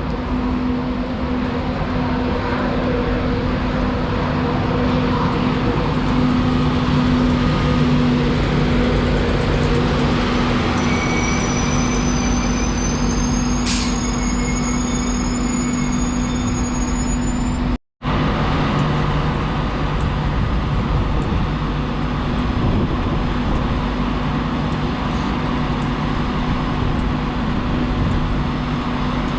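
Class 91 electric locomotive and its InterCity 225 train standing at or drawing into the platform, giving a steady low electrical hum. A thin high whine creeps slowly upward for several seconds in the middle, with a single click partway through it. The sound cuts out for an instant about two-thirds of the way in.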